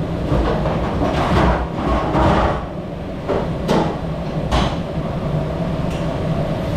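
Dishwashing clatter over a steady low machine rumble: dishes and trays knocking together, with two sharp knocks about three and a half and four and a half seconds in.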